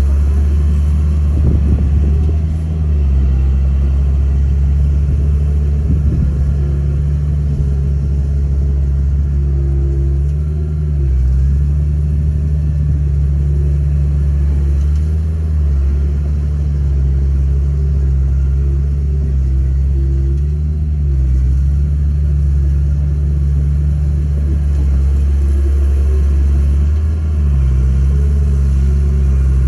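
Heavy machine diesel engine running loud and steady, its pitch dropping and rising again several times as the load on it changes. A few brief clanks come early on.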